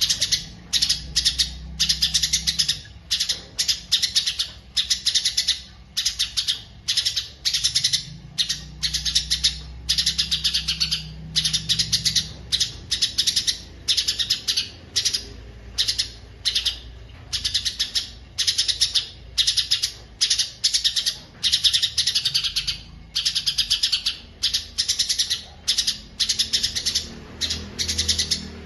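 A songbird singing a fast, unbroken run of short chattering phrases with brief pauses between them.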